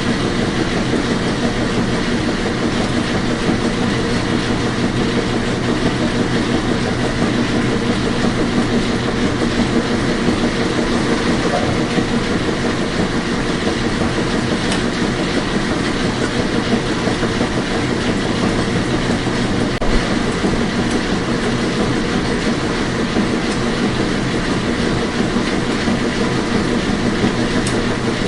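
Washing machine running: a steady mechanical rumble and wash of noise with a low hum, and one brief low knock about two-thirds of the way through.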